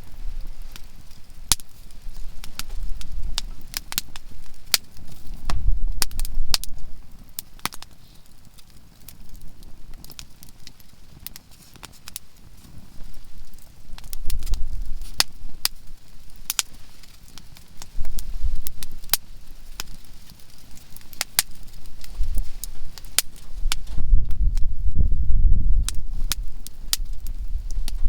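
Softwood (conifer) firewood burning in a campfire, crackling with frequent sharp, irregular pops, over a low rumble that swells several times and is loudest near the end.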